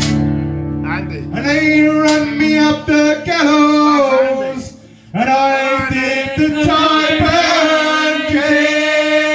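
Live folk music: a male voice singing over acoustic accompaniment, with a brief break in the singing about five seconds in.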